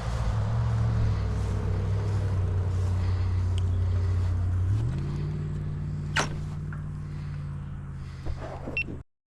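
Car engine running steadily, its pitch stepping up about five seconds in, with a sharp click about a second later. The sound cuts off abruptly near the end.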